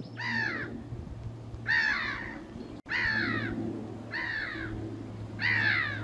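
A bird calling five times, each call a short note sliding down in pitch, spaced a little over a second apart.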